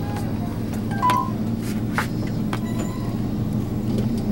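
Follow car's engine running steadily at low speed, heard from inside the car, with scattered light clicks and a brief high beep about a second in.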